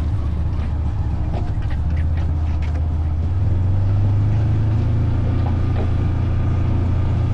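Engine of a ridden off-road vehicle running steadily under way, a low drone that grows louder about three and a half seconds in, with some light clicks and rattles in the first half.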